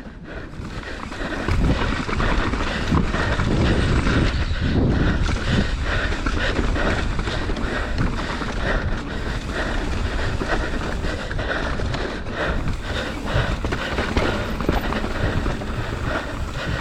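Mountain bike riding down a rough trail: wind buffeting the microphone and the tyres rumbling over the ground, with the bike clattering over bumps. The rumble builds about a second and a half in as it picks up speed.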